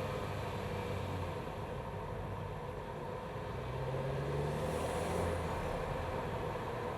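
BMW B48 turbocharged 2.0-litre four-cylinder engine running, heard from inside the engine bay, with a steady hum. The engine note swells and shifts slightly about four to five seconds in.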